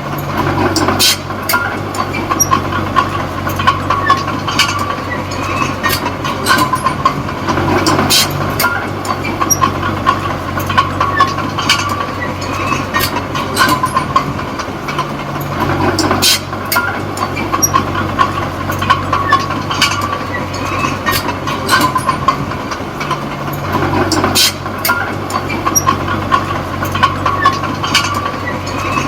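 Komatsu D20P crawler bulldozer at work: its diesel engine runs steadily, with the note shifting about every eight seconds, over continual clanking and squeaking of the steel tracks.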